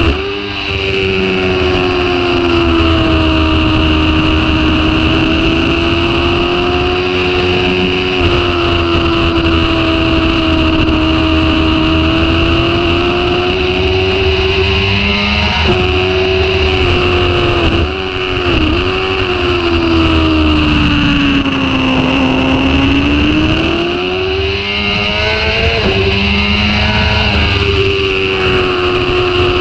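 Supersport motorcycle engine running hard at high revs on track, with heavy wind rush. Its pitch holds high, dips briefly at gear changes about 16 and 18 seconds in, sags lower around 22 seconds as the bike slows, then climbs again under acceleration.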